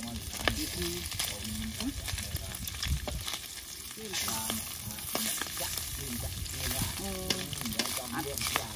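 Food sizzling as it fries in a hot pan, a steady crackling hiss with scattered sharp clicks.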